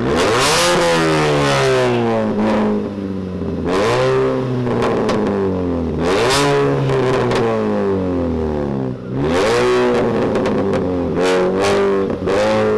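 A loud car engine revving again and again, its pitch climbing and dropping about six times.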